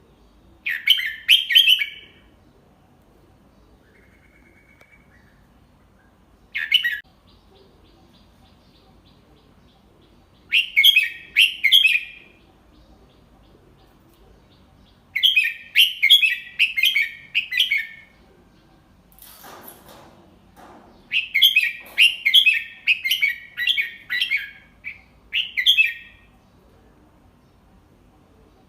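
Red-whiskered bulbul singing short phrases of quick, bright chirping notes, repeated with pauses of a few seconds between them. A soft low rustle comes about two thirds of the way in.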